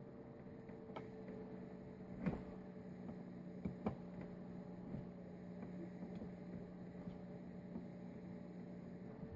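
Steady low electrical hum with a handful of light clicks and taps, the loudest about two seconds in and a close pair near four seconds.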